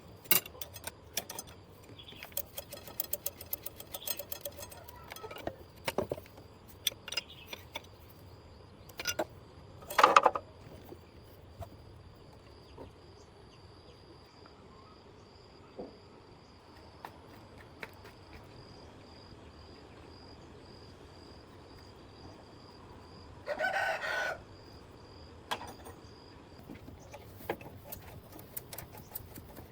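A rooster crows once, a call lasting about a second, near the end. Scattered sharp clicks and clinks sound throughout.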